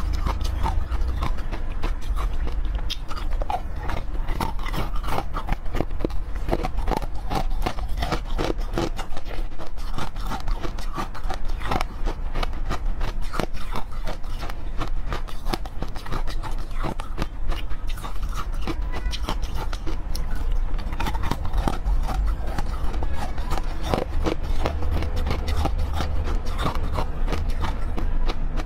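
Close-miked crunching and chewing of frozen cubes: a dense, irregular run of crisp cracks and crackles as the frozen pieces break between the teeth.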